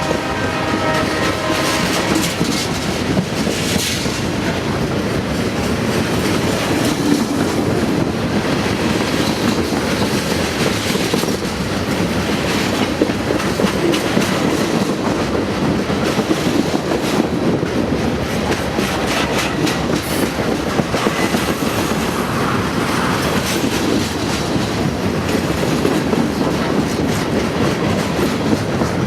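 A train passing close by: the steady clatter of railcar wheels over rail joints, with rattling and clicks. The train's horn is still sounding at the start and stops about two seconds in.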